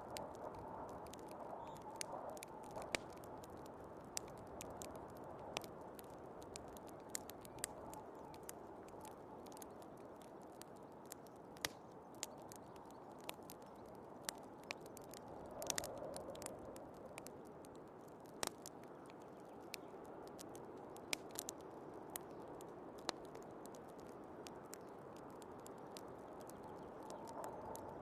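Fireplace crackling with irregular sharp pops and snaps over a steady rush of storm wind, which swells briefly about halfway through and again near the end.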